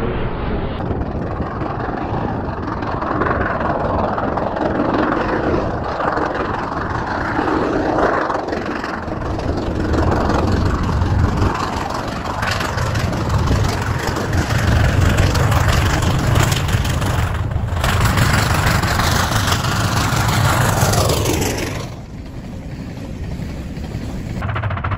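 Train noise over several spliced clips: a steady rumble and rush, then a steam locomotive working in snow, with a deep low drone from about a third of the way in. Near the end a pitch falls steadily, then the sound drops off abruptly.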